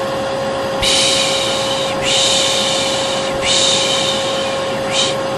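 Vacuum cleaner running with a steady hum, overlaid by a person's repeated 'pshh' shushing sounds. There are three long shushes back to back and a short one near the end, the kind of white-noise shushing used to soothe a baby.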